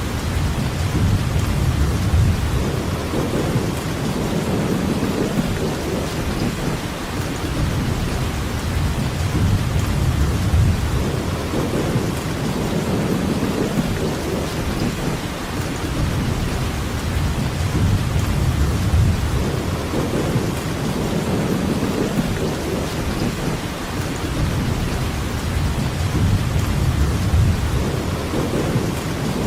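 Steady heavy rainfall, an even hiss, under a low rumble that swells and fades every few seconds.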